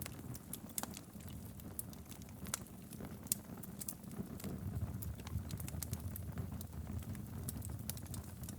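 Logs burning in a fireplace: a steady low rumble of flames with many sharp, irregular crackles and pops from the wood.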